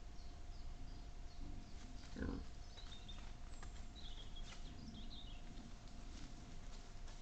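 Wild boar grunting softly, with one louder grunt about two seconds in.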